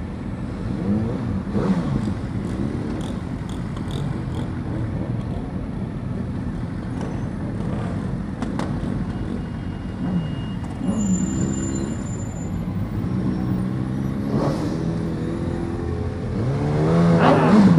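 Motorcycle engines revving up and down over steady road and wind noise during a group ride, with several revs through the stretch and the loudest, a rising then falling rev, near the end.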